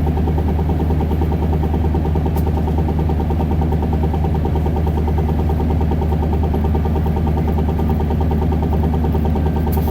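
Isuzu Erga bus's four-cylinder diesel engine running steadily at a constant, low engine speed, heard from inside the bus.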